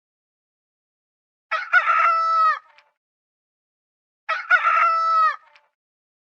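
Rooster crowing twice, about three seconds apart, each crow the same cock-a-doodle-doo of a little over a second, with dead silence between.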